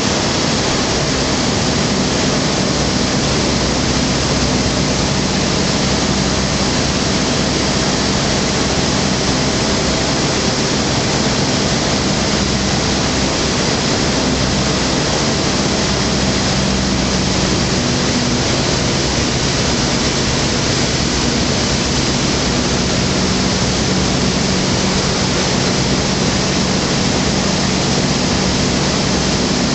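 Skyranger microlight's Rotax 912 four-cylinder engine running steadily, under a loud, even rush of air noise.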